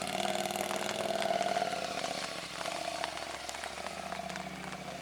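An engine idling steadily, with a few faint clicks and knocks over it.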